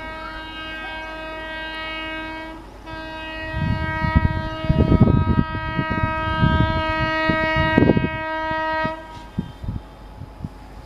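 Indian Railways locomotive horn sounding two blasts: one of a little under three seconds, then after a short break a long one of about six seconds that stops about nine seconds in. Under the second blast is the low rumble and buffeting of the train passing close by.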